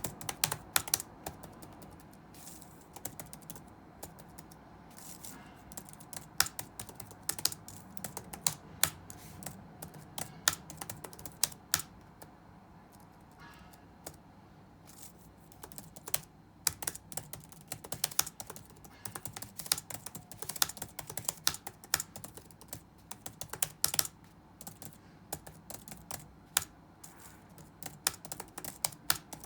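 Typing on a computer keyboard in irregular runs of key clicks, with brief pauses between runs, over a steady low room hum.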